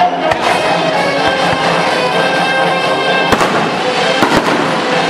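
Fireworks shells bursting in a few sharp bangs: the loudest about three seconds in, then two close together near the end. Loud music plays throughout.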